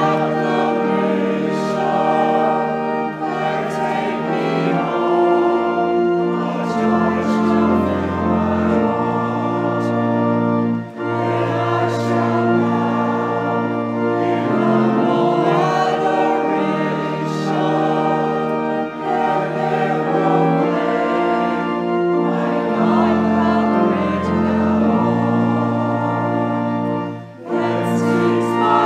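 Voices singing a hymn together over held organ-like notes, with brief breaks between phrases about a third of the way in and near the end.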